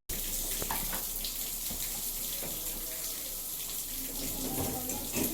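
Water running and splashing steadily inside an LG 6 kg washing machine during its wash cycle.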